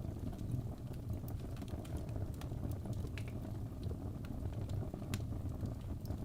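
Birch logs burning in a fireplace: a steady low rumble of flame with sharp crackles and pops at irregular intervals, about one or two a second.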